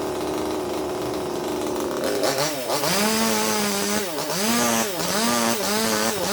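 Two-stroke chainsaw running steadily at a low speed, then speeding up about two seconds in and held high, its pitch dipping and recovering about every 0.7 seconds.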